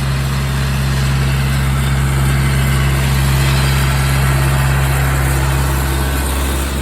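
Tractor engine running steadily nearby with a low, even drone, easing off slightly near the end.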